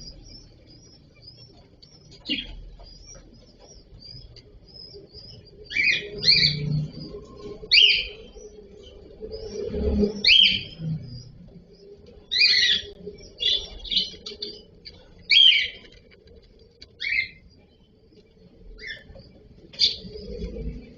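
Cockatiels chirping: short, sharp calls, some in quick pairs, about a dozen spread irregularly, over a faint steady hum.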